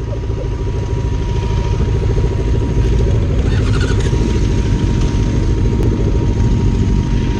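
Sport bike engines idling side by side in stopped traffic, a steady, even rumble.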